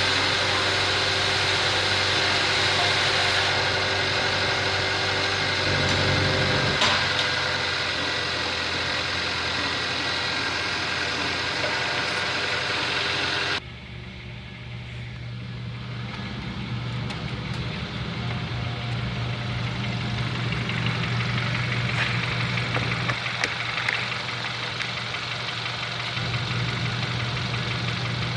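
2013 Kia Soul's 1.6-litre four-cylinder engine running steadily at idle. About halfway through, the sound turns abruptly quieter and duller, then the steady idle carries on.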